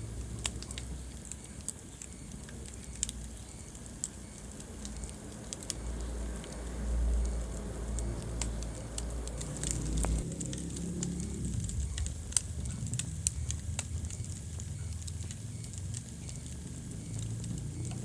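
Wood fire crackling in a fireplace, with frequent sharp pops over a low rumble that swells from about six to ten seconds in.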